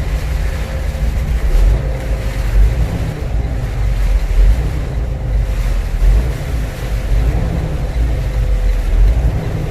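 Freightliner semi-truck's diesel engine and road noise heard from inside the cab: a steady low rumble as the truck rolls in neutral.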